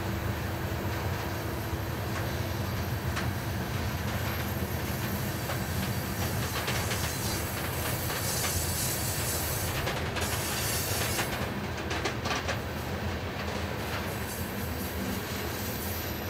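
Loaded coal hopper cars of a freight train rolling past: a steady low rumble of steel wheels on rail with a light clicking of the wheels, and a brief high hiss about halfway through.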